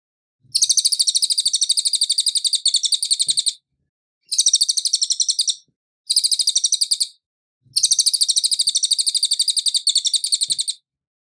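Cililin songbird singing: four fast, high-pitched trills of rapidly repeated chips. The first and last trills last about three seconds each, and the two in the middle about a second each, with short silent gaps between them.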